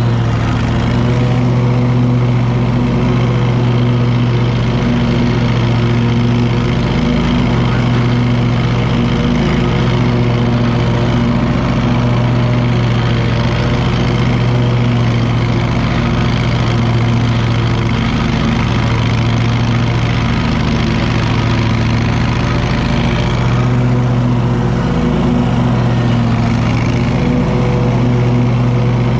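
Wright Stander stand-on mower's engine running steadily at constant throttle, a low even drone with a few momentary dips.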